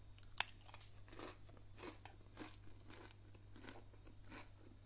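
Close-up crunchy chewing of a mouthful of salad with sesame rye crispbread, a crunch about every 0.6 seconds. A single sharp click, the loudest sound, comes just under half a second in.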